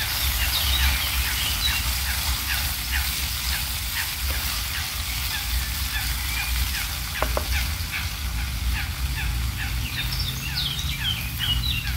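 Many short, falling chirps repeating about twice a second, from birds or frogs, over a steady low rumble, with a single knock about seven seconds in.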